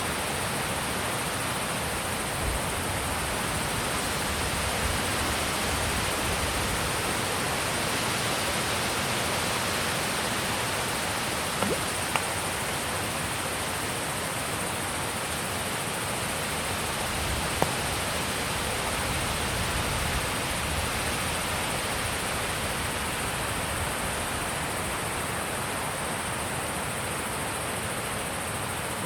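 Steady wind blowing, with uneven low rumbling from gusts. Two faint clicks near the middle.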